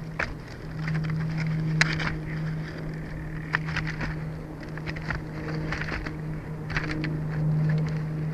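Outdoor ambience: a steady low hum under an even noisy background, with scattered short high chirps or clicks throughout.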